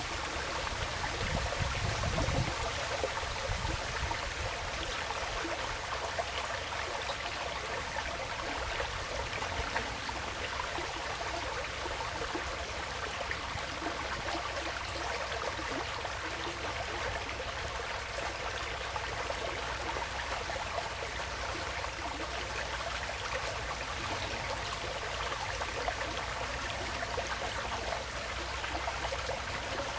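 Woodland stream flowing steadily, a continuous babbling trickle of water, with a brief low rumble in the first few seconds.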